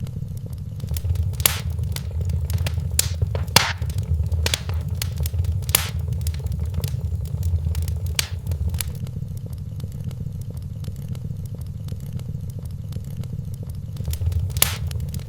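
Wood fire crackling in a fireplace: a string of sharp pops and snaps, bunched in the first half and with one more near the end, over a low steady rumble.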